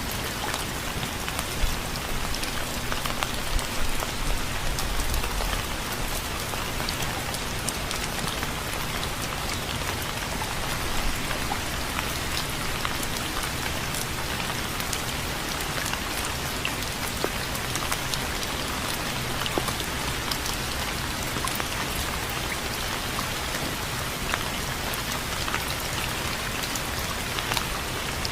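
Steady rain falling, an even hiss with many individual drops ticking on a surface, with a brief low rumble about four to five seconds in.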